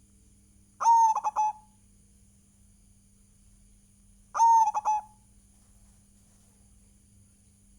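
Zebra dove (perkutut) cooing two song phrases about three and a half seconds apart. Each phrase is a strong opening coo followed by a few quick clipped notes, over a faint steady hum.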